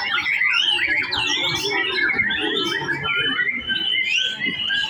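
White-rumped shama (murai batu) singing: a dense, unbroken stream of rapid whistles, trills and chirps sliding up and down in pitch.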